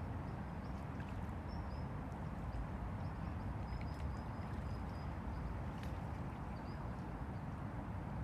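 Han River water lapping at the bank: a steady low wash. A series of faint, short, high chirps runs through the middle.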